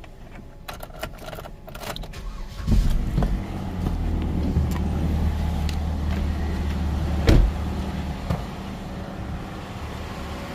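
Keys clicking into a 2009 Chevy Cobalt's ignition, then the engine cranks and starts a little under three seconds in and settles into a steady idle. A single sharp thump comes about seven seconds in.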